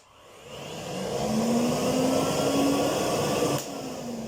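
Kärcher vacuum cleaner with a newly fitted motor being switched on for its run-in: the motor spins up to a steady whine over about a second and a half. About three and a half seconds in it is cut off and the whine falls away as it winds down.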